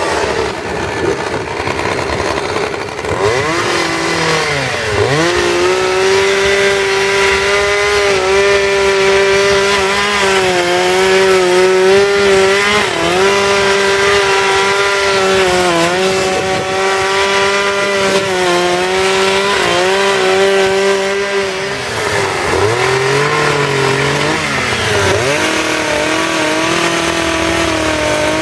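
Two-stroke chainsaw revved up and run at high speed while carving wood, its pitch sagging slightly now and then under load. It drops back toward idle about five seconds in and again after about twenty-two seconds, then revs up again each time.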